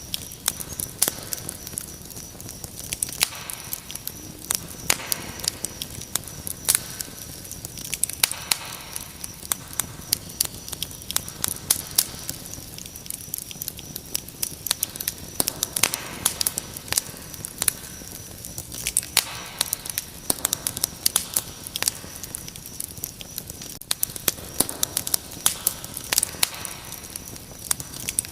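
Wood fire crackling, with frequent sharp pops, over a steady high-pitched cricket trill.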